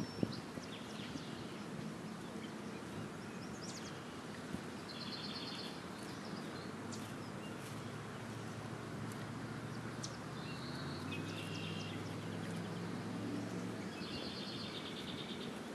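Outdoor background noise with a small bird's short, rapid trill repeating three times, at about five, ten and fourteen seconds in. A low hum sits under it through the middle.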